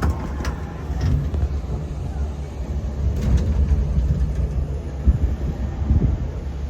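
Uneven low rumble of wind buffeting the microphone, rising and falling in level.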